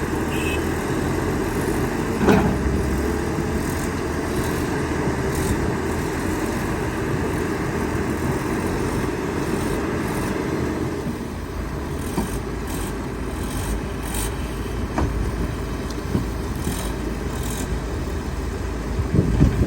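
Hydraulic excavator's diesel engine running steadily, with a sharp knock about two seconds in and another near the end. The engine eases a little about halfway through.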